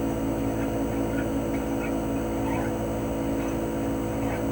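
CHOFU AE-2844PX mini-split outdoor unit running steadily in cooling mode: the GMCC single-rotary inverter compressor hums with several steady tones under the rushing air of the propeller fan.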